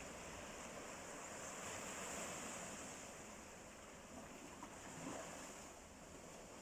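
Sea waves washing ashore: a steady, soft rush of surf that swells slightly about two seconds in.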